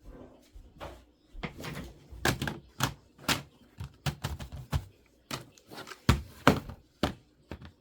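Irregular clicks and knocks of small hard parts being handled: spare laptop screws and the laptop's plastic case being worked by hand, with a few louder knocks about six seconds in.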